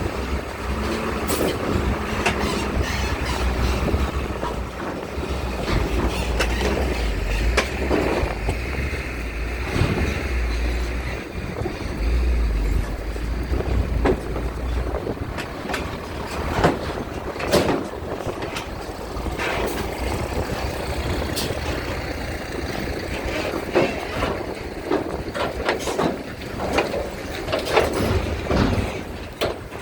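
Strong wind buffeting the microphone in heavy low gusts that ease off about halfway through, over a steady mix of vehicle and ship engine noise, with scattered knocks and clanks.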